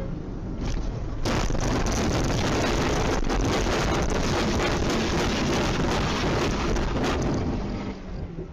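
A moving car's road and wind noise on a dashcam microphone: a loud, steady rush that starts abruptly about a second in and drops away near the end.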